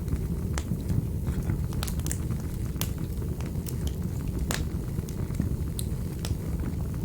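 Fire in a fireplace crackling: irregular sharp pops and clicks over a steady low rumble of the flames, with the loudest pop about four and a half seconds in.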